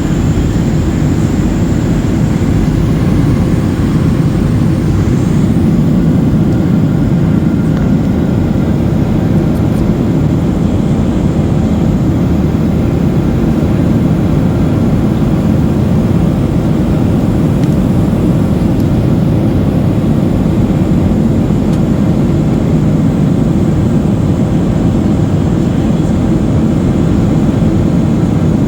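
Steady cabin drone of a Boeing 737-800 in flight: engine and airflow noise heard from inside the passenger cabin, a constant low rumble.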